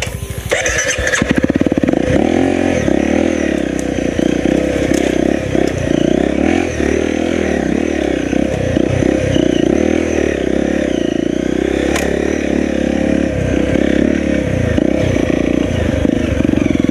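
Enduro dirt bike engine running at low revs, with the throttle opening and closing in repeated short surges while the bike works down a steep rutted trail. There are occasional knocks from the bike over rough ground, one clear sharp knock about twelve seconds in.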